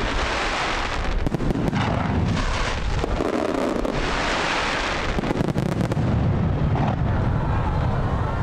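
Aerial fireworks display: continuous low booming of shell bursts under dense crackling, swelling into loud hissing crackle twice, at the start and again about four seconds in.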